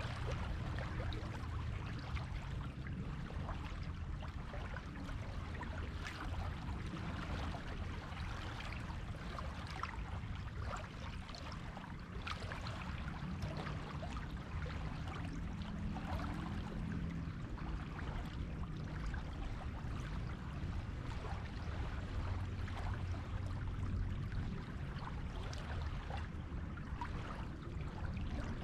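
Sea water washing on a beach: a steady rush of surf with many small splashes and fizzing, and no single big wave break. A faint low hum sits underneath, a little stronger around the middle.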